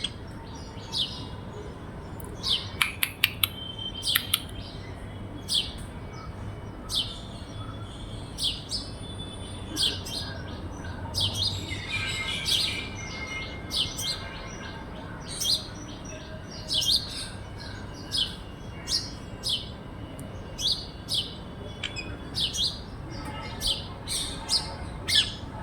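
A parrot calling with short, sharp chirps that fall in pitch, repeated roughly once a second. A quick cluster of clicks comes about three seconds in.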